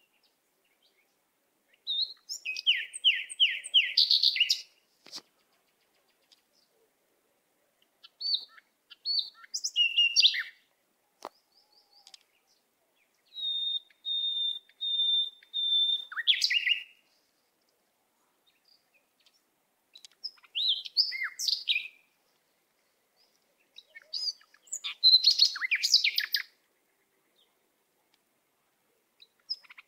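Birds chirping and trilling in about five short spells a few seconds apart, with dead silence between them; in one spell a clear whistled note is repeated about four times.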